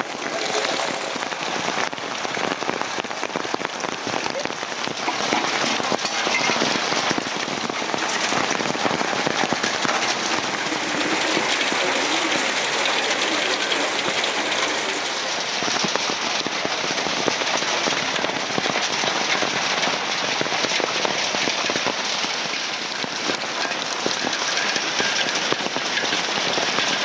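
Heavy rain falling steadily, a dense even hiss with fine patter of drops on surfaces.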